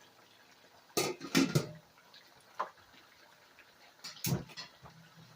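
A few short knocks and clatters of kitchen pots and utensils: a cluster of them about a second in, a single one in the middle, and another loud one near the end.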